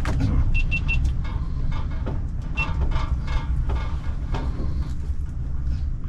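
Strong wind buffeting the microphone in a winter storm on the ice, a heavy, uneven rumble. Scattered clicks and knocks run through it, with a few short high beeps near the start and again about two and a half seconds in.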